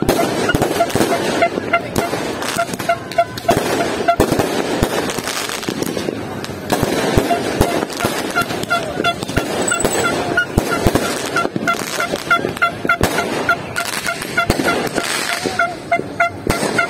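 Fireworks going off in repeated bangs and crackles, over a horn tooting in short, evenly spaced blasts, about three a second.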